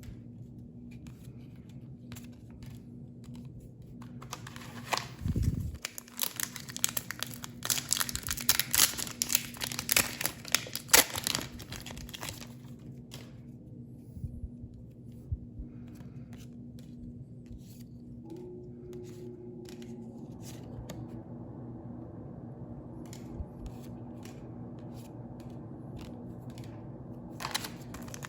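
A foil booster-pack wrapper being torn open and crinkled: several seconds of dense, sharp rustling, then only scattered light ticks, with crinkling starting again near the end. A low steady hum runs underneath.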